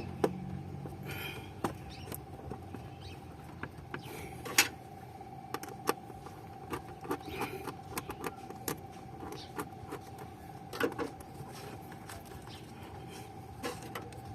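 Hands forcing a rubber coupler and air filter onto a car's throttle body: scattered clicks, knocks and small rubbery squeaks of the parts and hose clamp being worked on, over a faint steady hum.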